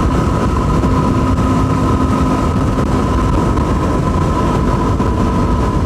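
Yamaha WR250R's single-cylinder engine running steadily at cruising speed, with wind rush on the mic and a steady whine over it.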